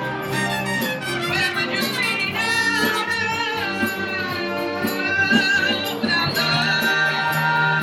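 Live band playing a rock song: a lead melody with vibrato over bass, guitar and drums with a steady beat.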